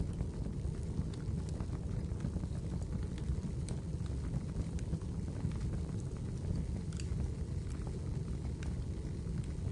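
Fire in a fireplace crackling: scattered sharp pops and clicks at irregular moments over a steady low rumble.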